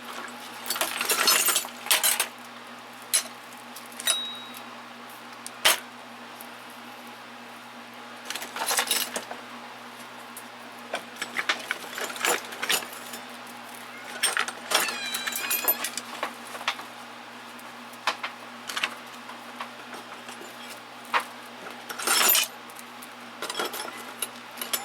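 Hand tools clinking and rattling against each other and a toolbox drawer as they are picked up and laid in, in scattered bursts of clatter with single sharp clicks between.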